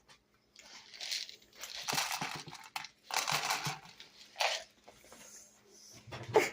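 Crinkling and rustling in several bursts of a second or so each: cat food and its packaging being handled while it is dished out onto plates.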